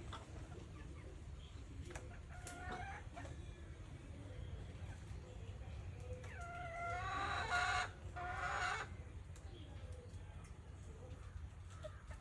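A rooster crows once, a drawn-out call beginning about six seconds in and lasting over two seconds, over a faint steady low hum.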